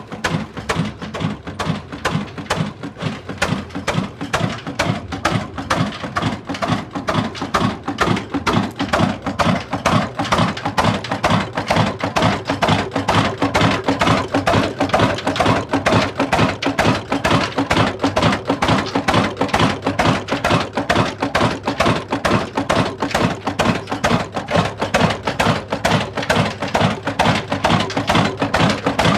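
Old heavy black diesel engine of the Ruston Hornsby type running steadily on a tubewell, its slow, even exhaust beats following one after another at several a second.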